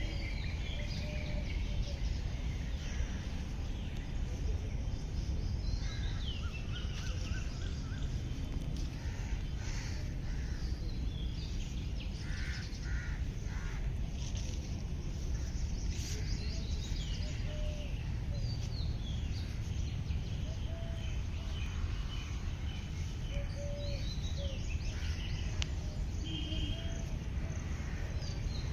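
Wild birds chirping and calling with short, falling whistled notes, scattered throughout, over a steady low outdoor rumble.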